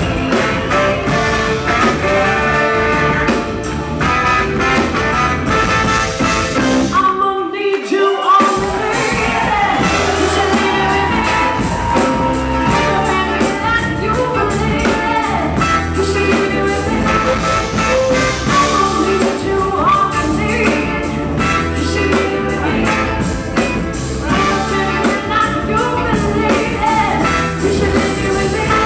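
Live soul-rock band playing with a lead singer, electric guitar and a bass-and-drums groove. The band stops for about a second roughly seven seconds in, then comes back in.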